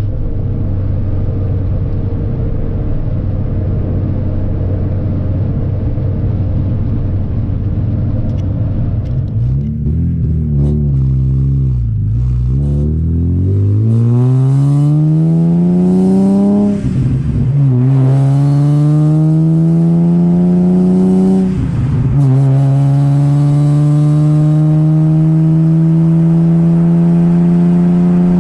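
Supercharged Nissan 350Z's VQ V6 through an ISR single-exit exhaust, first cruising at steady revs. It then accelerates through the gears: the exhaust note climbs in pitch, dropping briefly at shifts about 17 and 22 seconds in.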